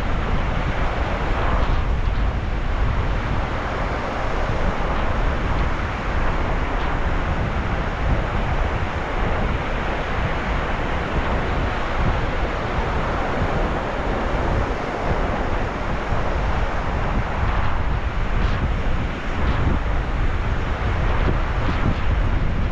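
Sea waves washing on the shore in a steady rush that swells and eases, with wind rumbling on the microphone.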